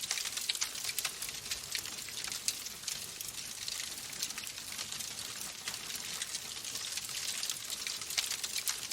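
Wood fire crackling in a fireplace: a steady hiss of burning with many small sharp pops and snaps scattered throughout.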